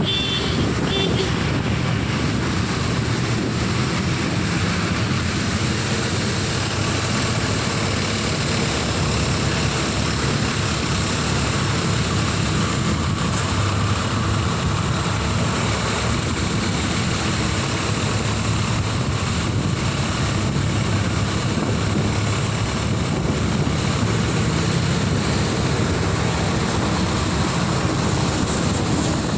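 Steady rushing wind and a low running hum of a moving vehicle, with wind buffeting the microphone.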